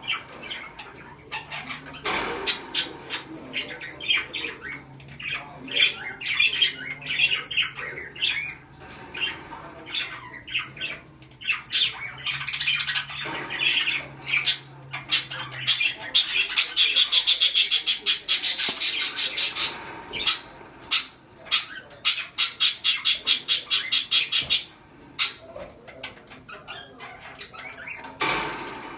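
Budgerigar chatter: many short, sharp chirps and squawks, with long fast runs of rapidly repeated notes a little past halfway.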